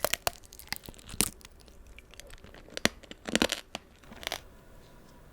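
Close-miked crunching of the hard, glassy sugar shell on tanghulu candied fruit as it is bitten and chewed. It comes as several sharp, irregular crackles, with the densest cluster about three and a half seconds in.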